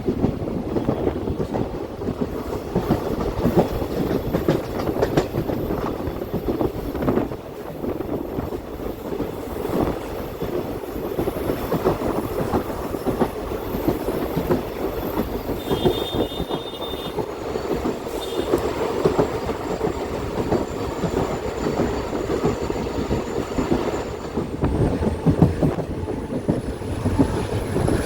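Passenger train running along the track: a steady rumble of coach wheels with irregular clacks and knocks over the rails. About sixteen seconds in there is a brief high-pitched squeal.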